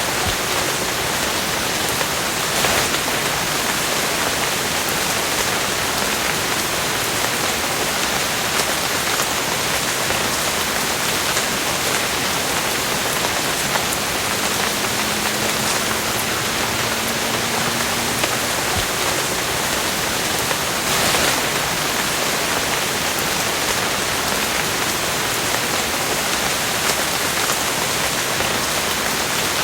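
Steady rain falling, an even hiss of many drops, with two brief louder swells, a few seconds in and again about two-thirds of the way through.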